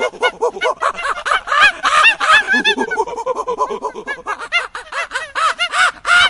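A chorus of many short animal calls overlapping in quick succession, each rising and falling in pitch.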